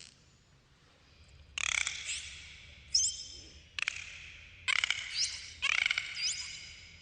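Dolphins calling: about five harsh, squawking bursts of pulsed sound, each starting suddenly, with quick rising whistles among them.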